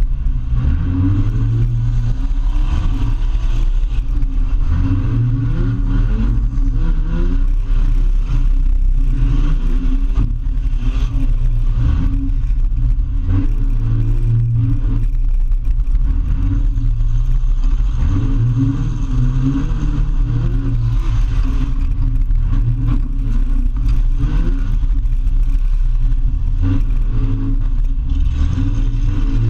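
Demolition derby car's engine, heard from inside its stripped-out body, revving up and falling back over and over as the car accelerates across the dirt arena.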